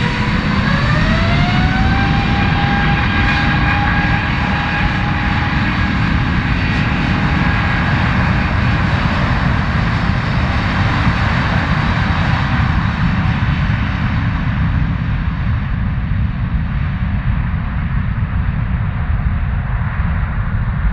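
Jet airliner engines spooling up at the start of a takeoff. A whine rises in pitch over the first couple of seconds and then holds steady over a heavy, loud rumble. The higher whine fades gradually toward the end as the aircraft moves away.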